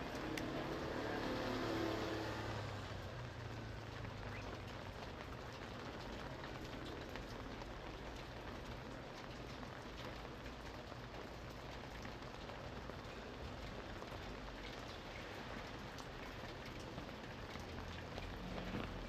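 Steady rain falling, with scattered sharper drops ticking close by. A louder, lower rushing swell rises and fades over the first three seconds.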